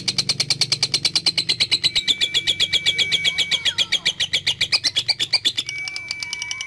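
Lovebird giving a long ngekek: a rapid, unbroken chattering trill of about ten high-pitched notes a second. Two steady whistled tones sound over it in the second half.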